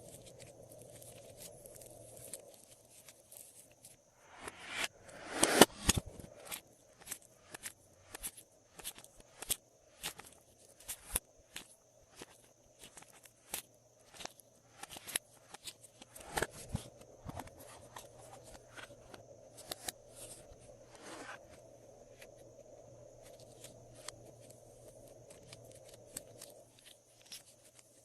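Glossy slime being handled and mixed by hand, giving irregular sticky clicks and pops, with a louder cluster of pops about five seconds in.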